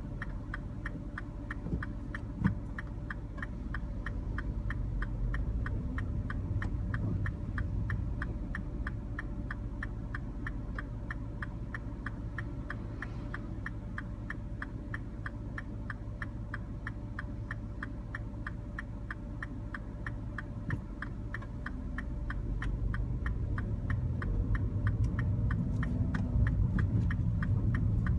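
Inside a Mini Cooper: the engine running with a low rumble while a turn-signal indicator ticks steadily and evenly throughout. The engine gets louder over the last few seconds as the car pulls away.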